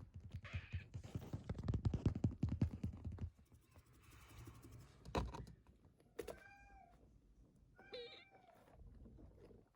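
Kitten meowing twice, two short high calls about six and eight seconds in. Before them comes a few seconds of rapid low rumbling and a single knock.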